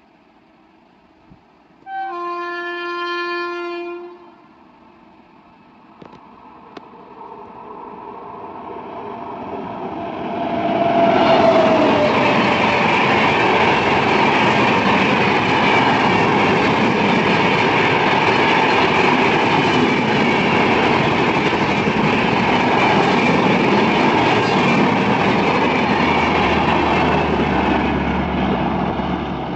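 Indian Railways express train sounding its horn once for about two seconds. It then approaches and passes at speed, the rumble and clatter of the coaches building up and holding loud. The sound cuts off abruptly at the end.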